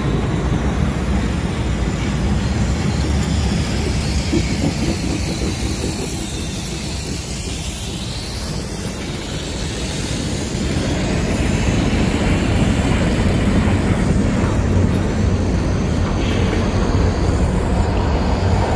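Diesel freight locomotives passing close by under power: a steady, loud engine rumble mixed with the noise of wheels on rail, growing louder about eleven seconds in.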